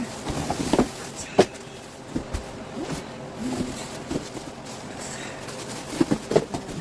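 Scattered knocks and clicks of cardboard packaging and plastic vacuum parts being handled during unboxing, with a few sharper knocks about a second in and again near the end.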